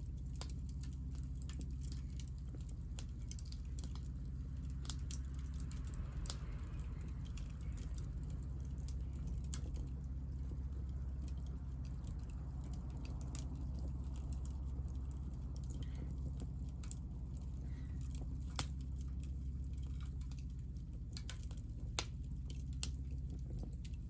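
Hinoki cypress offcuts burning in a small fire, crackling with irregular sharp pops over a steady low rumble, with a soft hiss through the middle.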